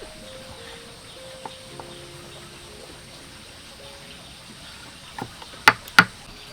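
A quiet stretch with faint steady tones, then a few sharp knocks near the end: a light one, then two loud ones about a third of a second apart.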